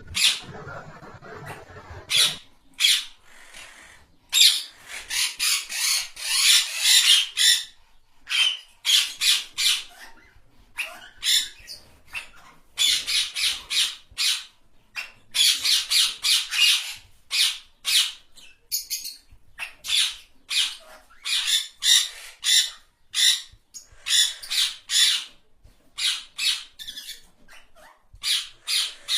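Birds calling in rapid runs of short, high calls, several a second, broken by brief pauses. A soft rushing hiss underlies the first two seconds.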